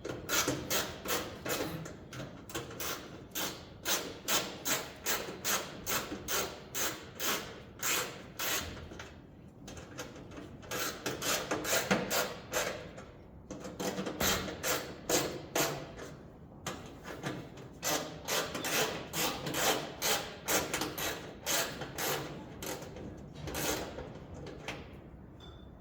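Screws being tightened into the heater's sheet-metal cover: a run of short scraping clicks at about two a second, in about four bursts with brief pauses between.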